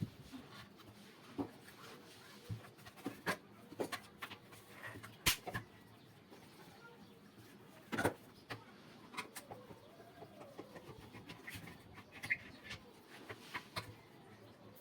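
Scattered light clicks and knocks, with the sharpest about 5 and 8 seconds in, of an electric blower's plastic and metal parts being handled and unscrewed during disassembly.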